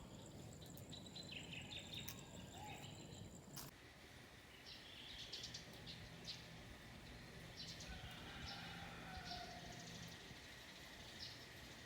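Faint outdoor ambience with birds chirping in short calls now and then. The background changes abruptly a few seconds in, and the chirps come more often after that.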